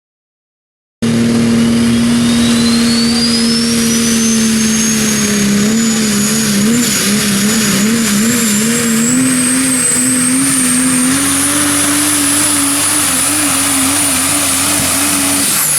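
Super stock diesel pulling truck running at full throttle under the load of the pulling sled, starting abruptly about a second in. The engine's drone wavers up and down in pitch, and a turbocharger whistle climbs steadily through the first several seconds, then holds high.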